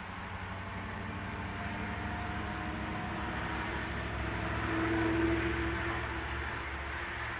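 A motor vehicle passing: a low rumble that builds to its loudest about five seconds in, then eases off.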